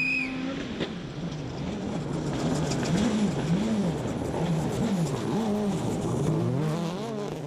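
Turbocharged four-cylinder World Rally Car engine heard onboard at stage speed. Its revs rise and fall about five times in quick succession, then climb again near the end, as the driver works the throttle and gears.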